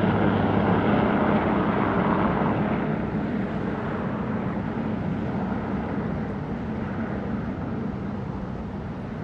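Aircraft engine drone passing overhead, with a steady low hum, slowly fading away.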